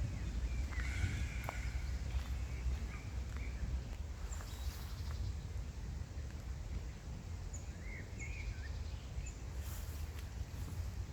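Small birds chirping on and off, short calls and upward-hooked notes, over a steady low rumble of outdoor ambience.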